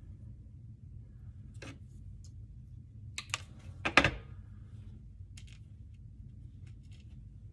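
Scattered light clicks and taps of hand work with a cutting tool, with a quick cluster of sharper clicks about three to four seconds in, the loudest just after four seconds, over a low steady hum.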